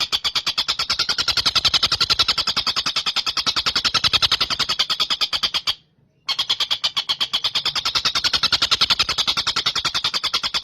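Tengkek buto kingfisher calling: a rapid trill of fast, evenly repeated shrill notes, broken once by a short pause about six seconds in.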